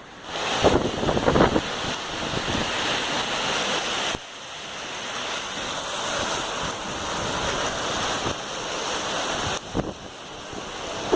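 Heavy rain pouring down in a storm, with wind buffeting the microphone in gusts. The noise changes abruptly about four seconds in and again near the end.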